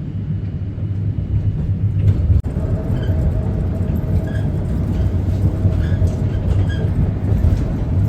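Steady low rumble of a moving vehicle, with a sharp click about two and a half seconds in.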